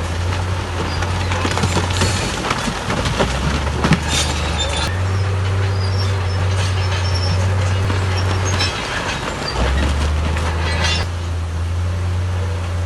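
Crawler bulldozer's diesel engine running under load, its low drone shifting in pitch several times, with squeals and clanks from the steel tracks and blade throughout.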